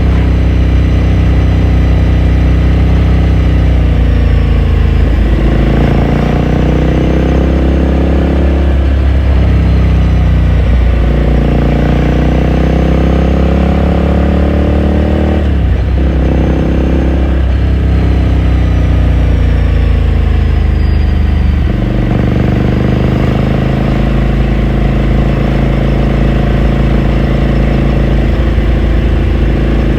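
2018 Ducati Scrambler Sixty2's air-cooled L-twin running under way, revs climbing and dropping back several times as it shifts through the gears, then holding a steadier, lower note in the last third.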